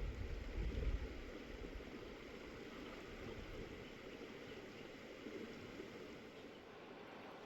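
River water flowing, a steady even rush, with a heavier low rumble through the first second or so.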